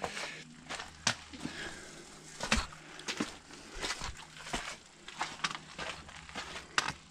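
Footsteps of a hiker walking on a trail: uneven steps, about one or two a second.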